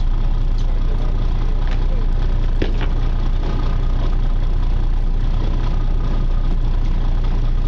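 Charter fishing boat's engine running steadily, a loud, even low hum heard on board.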